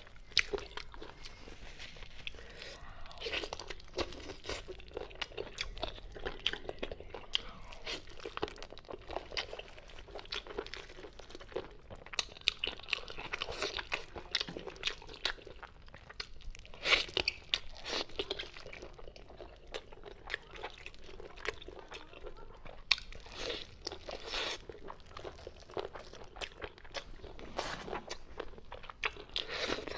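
A person eating chicken close to the microphone: steady chewing with many short, irregular crunching clicks.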